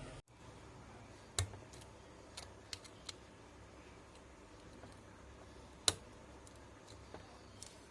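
Scattered light clicks and taps, about six in all, the loudest about six seconds in: small hand tools and a transistor being handled on a CRT TV's circuit board during repair.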